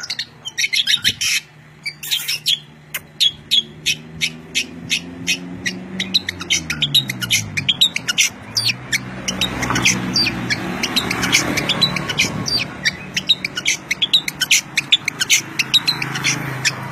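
Songbird chirping busily, a rapid stream of short, sharp, high calls. Under it runs a low drone whose pitch slides down about five to eight seconds in, then holds steady.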